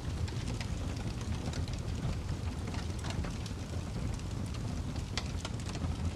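Wood fire crackling in a fireplace: irregular sharp pops and crackles over a steady low rumble of the burning logs.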